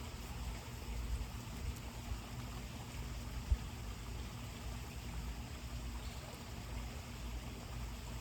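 Quiet outdoor ambience: a low, uneven rumble with a faint hiss above it, and one brief soft knock about three and a half seconds in.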